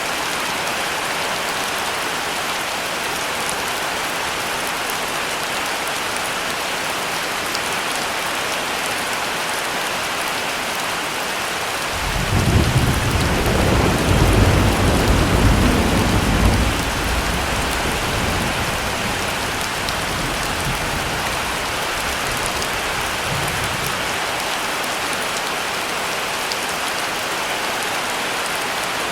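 Heavy rain falling steadily, with a roll of thunder about twelve seconds in that rumbles for around five seconds and then dies away.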